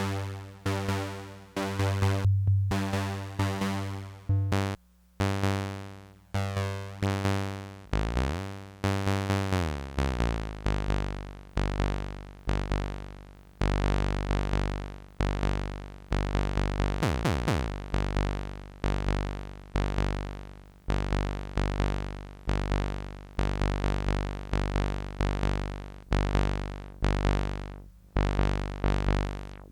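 Electronic tech house music playing from a Korg Electribe Sampler ES2. Held synth chords glide down in pitch about a third of the way in, then give way to a choppy pattern of short, decaying sampled hits.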